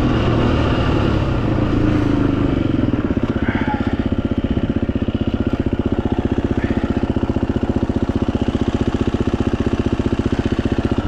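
Dirt bike engine coming off the throttle and dropping to idle, then idling with an even, rapid pulse until it cuts off suddenly at the very end.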